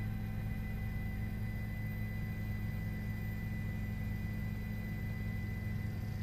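Steady low drone and hum with a thin, steady high-pitched tone above it.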